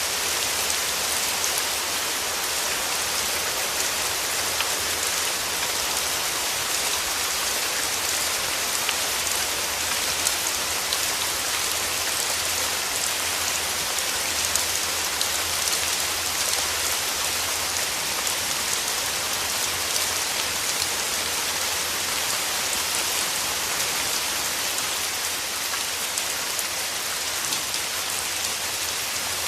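Steady rain falling: an even, dense hiss with faint scattered drop taps, unchanging throughout.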